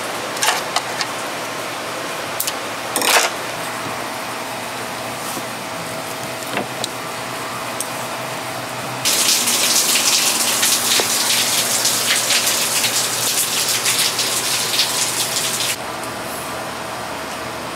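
Steady rain noise with a few sharp clicks early on; about nine seconds in a much louder crackling hiss starts, runs for several seconds and cuts off suddenly.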